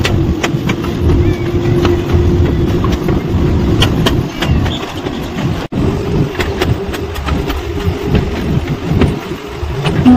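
Moving train coach running along the track: a steady low rumble and rattle with a faint steady hum and scattered sharp clicks. It cuts out for an instant a little over halfway through.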